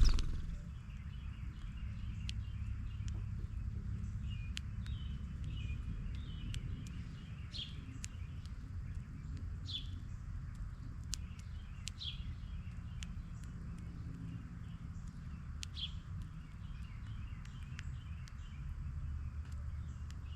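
Wild birds chirping with short, scattered calls, several of them quick falling notes, over a steady low rumble. A single sharp knock sounds right at the start.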